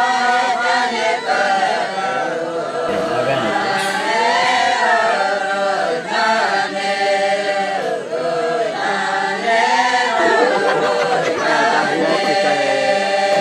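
A group of voices singing a chant together, unaccompanied, in long held notes that rise and fall in pitch.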